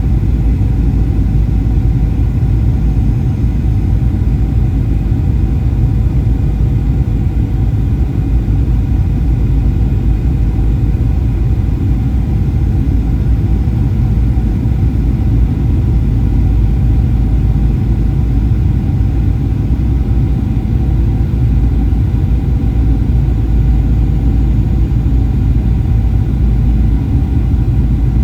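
Steady cabin noise inside a Boeing 737-800: the rumble of its CFM56 engines and the airflow, holding even, with a few faint steady tones above the low roar.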